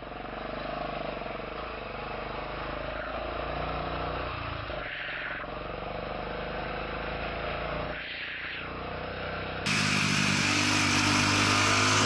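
Motorcycle engine running steadily on the road, with a hiss of road and wind noise and small dips in level twice. Near the end a sudden cut brings in a louder recording of a vehicle engine.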